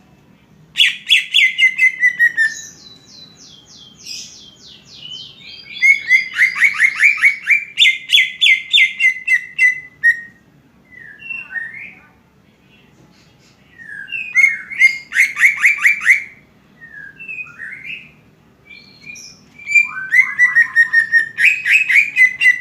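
Greater green leafbird (cucak ijo) singing in loud bursts of rapid chirps, about eight notes a second, each note sliding down in pitch. Four such bursts come with short pauses and scattered single calls between them.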